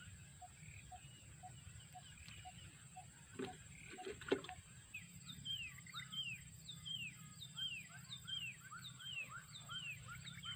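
Outdoor ambience by a pond: from about halfway a bird calls a rapid series of short falling whistles, about three a second, over a steady high-pitched whine and a regular soft pip about twice a second. A couple of short knocks sound near the middle.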